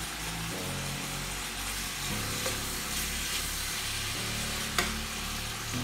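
Cubes of deer liver sizzling over high heat in a cast iron skillet with bacon grease, leeks and mushrooms, stirred with a metal spatula; a sharp clink of the spatula against the pan near the end.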